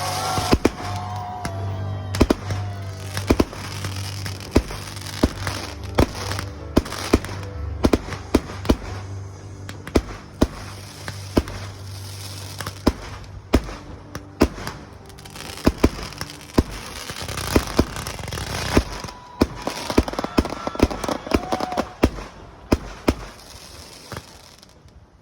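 An aerial fireworks display: dozens of sharp bangs from bursting shells, often several a second, with crackle between them. Background music runs underneath for roughly the first two-thirds, then stops.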